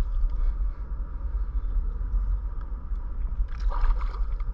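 Steady low rumble of wind buffeting the microphone, with a brief rush of noise about three and a half seconds in.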